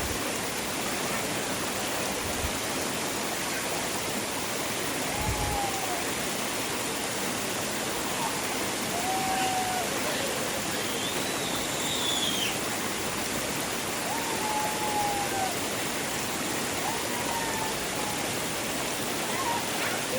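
Mountain valley stream rushing steadily, an even wash of flowing water.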